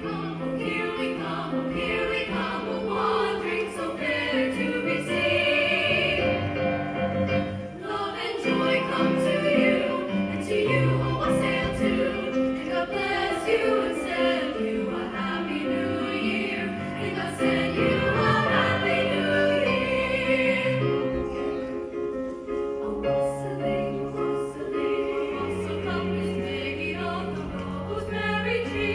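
A choir singing with instruments accompanying.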